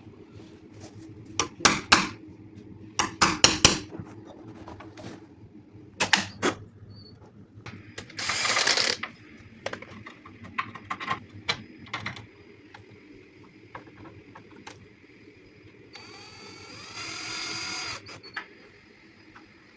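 Sharp clicks and knocks of hand work on door hardware, then a power drill runs briefly about eight seconds in and again for about two seconds near the end, its pitch shifting as it drives.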